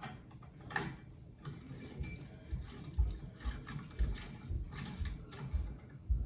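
Footsteps going up stairs, dull thumps about two a second, with rustling and clicks of things being handled.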